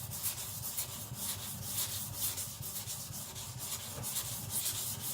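Steel cleaver blade being rubbed back and forth on a coarse Shapton Glass 220 whetstone in repeated gritty strokes, grinding metal off the wide bevel to thin the blade.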